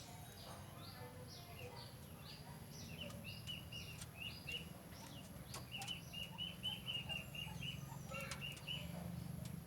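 Birds chirping: quick runs of short, high notes, several a second, with higher single notes between them, over a steady low hum.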